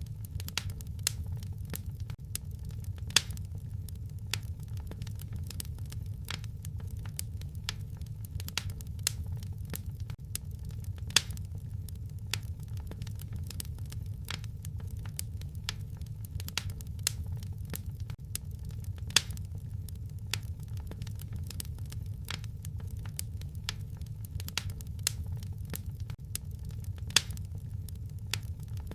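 Wood fire crackling in a fireplace: a steady stream of small pops and snaps over a low rumble, with a louder sharp pop about every eight seconds.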